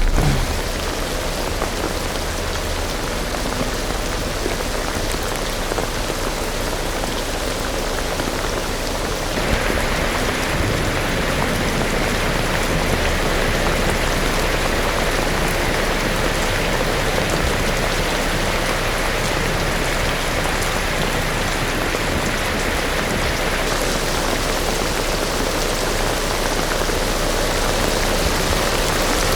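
Steady rain falling and splashing on surfaces, a dense even hiss that grows slightly brighter about a third of the way in.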